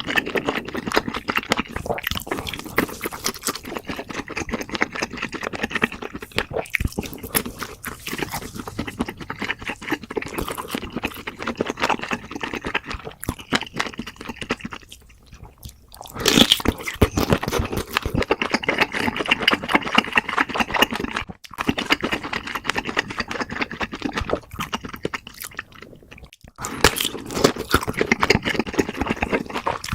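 Close-miked eating sounds: wet chewing and crunching of food, a dense stream of small crackles and smacks that drops away briefly a few times.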